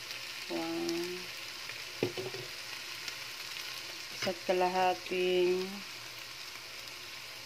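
Kidney beans, okra and vegetables sizzling steadily in a frying pan, with a couple of sharp clicks from the utensils. A voice sounds briefly twice, in the first second or so and again around the middle.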